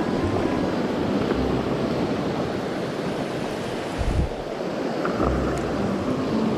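Mountain stream water rushing steadily, with a few low gusts of wind on the microphone.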